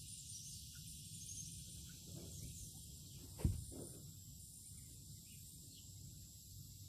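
Steady high-pitched chorus of insects, with a single sharp knock about halfway through.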